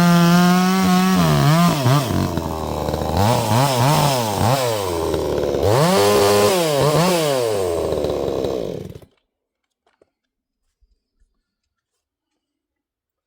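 62cc two-stroke gas chainsaw running at high revs, then revving down and up several times before shutting off abruptly about nine seconds in.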